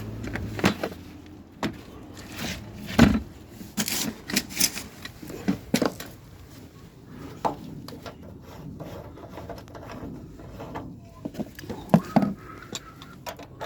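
Irregular knocks, clicks and rubbing of hard objects being handled and set down, with the sharpest knocks about three seconds in and near the end.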